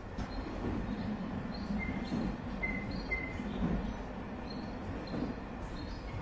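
Rail vehicle running along its track: a steady low rumble with faint clicks and a few brief high squeaks.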